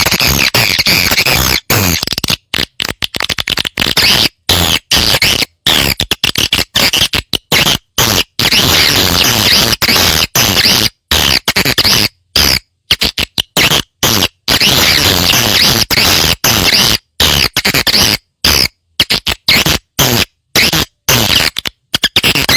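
Looped recording of swiftlet calls played as a nest-house lure: dense, fast, buzzy twittering chirps, cut again and again by abrupt short gaps of silence.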